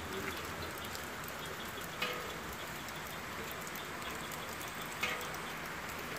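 Steady rain falling, with a couple of sharper taps about two and five seconds in.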